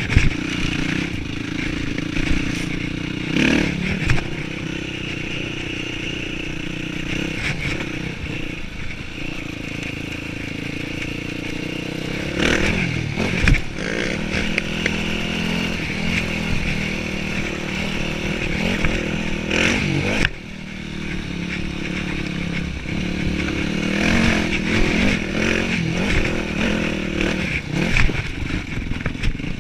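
Yamaha WR-series dirt bike's single-cylinder four-stroke engine running under changing throttle on a trail ride, its pitch rising and falling. A few sharp knocks and rattles from the bike over rough ground, and a brief sudden drop in engine sound about twenty seconds in.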